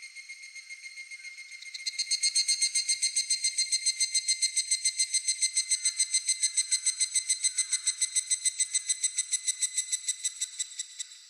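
An evening cicada (higurashi) singing close by: a clear, ringing 'kana-kana-kana' song of rapid pulses, about six or seven a second, at a steady pitch. It swells in about two seconds in over a fainter pulsing call and stops just before the end.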